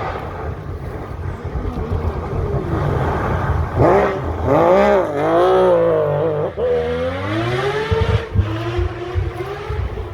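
Three-rotor rotary engine of a Mazda RX-8 rally car revving hard, its pitch climbing and dropping repeatedly through throttle changes, loudest from about four to six seconds in, with a few sharp pops about eight seconds in.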